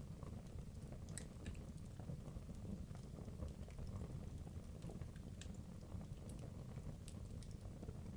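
Wood logs burning in a fireplace: a low steady rumble of flames with scattered sharp crackles and pops at irregular moments.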